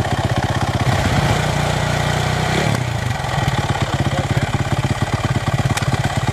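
Dirt bike engine running with a fast pulsing exhaust note, its pitch rising about a second in and dropping back near the middle.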